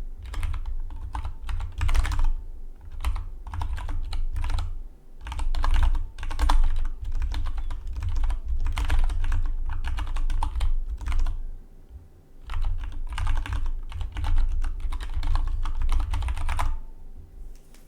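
Fast typing on a Dygma Defy split mechanical keyboard: dense runs of key clicks with a low thud under each keystroke. The typing comes in bursts, with a short pause about twelve seconds in, and stops near the end.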